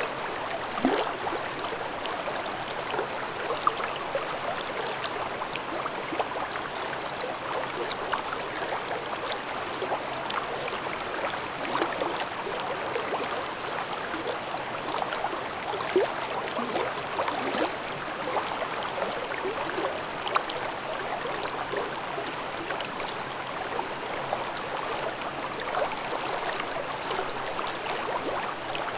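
A shallow mountain stream babbling over rocks: a steady rush of water with frequent small splashes and gurgles.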